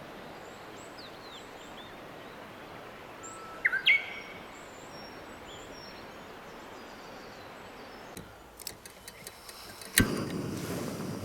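Woodland ambience with small birds chirping here and there and one louder, rising bird call about four seconds in. Near the end come a few light clicks, then a sharp knock, after which a louder steady rushing noise sets in.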